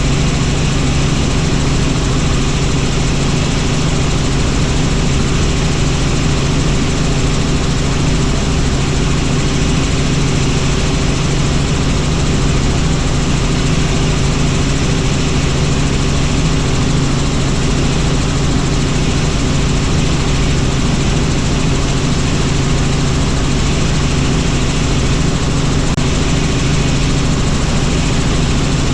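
Helicopter in flight: the steady drone of its turbine and rotor, a constant low hum over a wide rushing noise, unchanging throughout.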